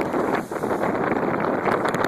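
Gale-force wind buffeting the microphone on a sailing boat, a loud, steady rush with a brief dip about half a second in.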